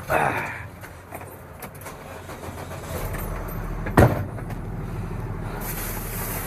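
Vehicle sounds: a short sound right at the start, then a steady low hum from about three seconds in, and a single sharp bang, like a vehicle door shutting, about four seconds in.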